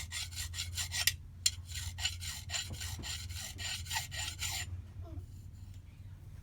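Hand file rasping back and forth on a metal jet-ski pump part, quick even strokes at about four a second that stop well before the end.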